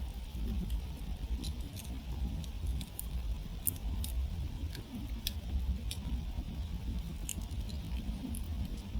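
Wood campfire crackling: irregular sharp pops and snaps, a dozen or so in these few seconds, over a steady low rumble.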